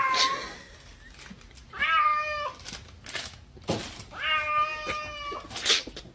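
A cat meowing: three drawn-out meows, the last the longest, with a few short noises between them.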